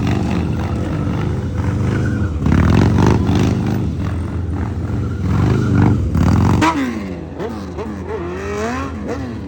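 Several dirt bike engines running and revving together, their pitch rising and falling as throttles are blipped; it eases off somewhat after about seven seconds, leaving a couple of bikes revving up and down.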